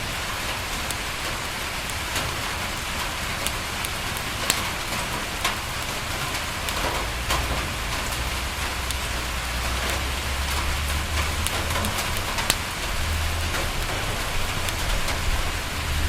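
Steady rain pattering on a window, with scattered sharp crackles and pops from a wood fire. A low rumble swells underneath from about seven seconds in.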